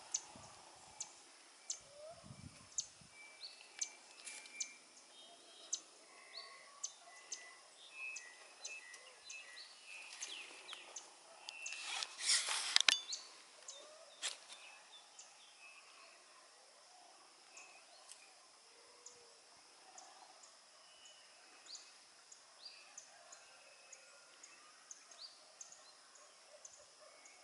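Birds chirping outdoors in short, scattered high calls, with a brief louder burst of noise about twelve seconds in.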